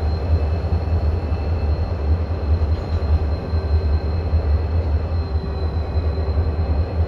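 Train running with a steady, heavy low rumble and a faint steady high whine.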